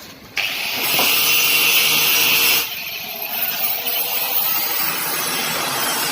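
Steam hissing from a steam boiler, switched on suddenly about half a second in; it is loudest for about two seconds, then keeps going a little quieter.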